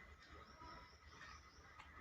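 Near silence: faint room tone with a couple of soft ticks.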